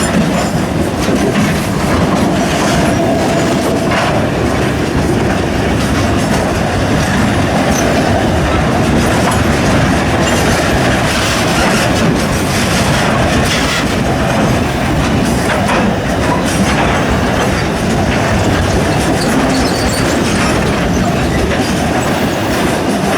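Freight train rolling past on the rails, a steady loud rumble with the clickety-clack of wheels over rail joints.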